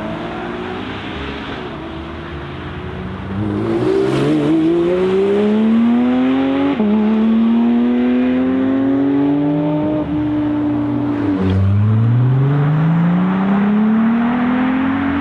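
A sports car engine accelerating hard, its pitch climbing through the gears. It gets louder about three and a half seconds in, with three quick upshifts where the pitch drops suddenly, then climbs again.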